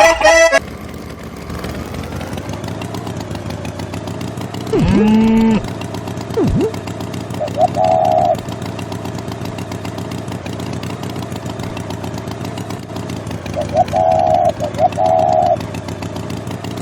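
Small engine running steadily, with short warbling calls over it: one about five seconds in, then pairs near the middle and near the end.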